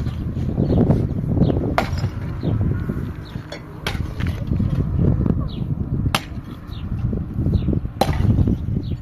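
Four sharp knocks or strikes, about two seconds apart, over a steady low rumble.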